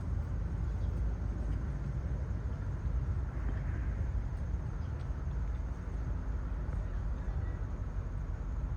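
Steady low rumbling noise of wind buffeting the microphone outdoors.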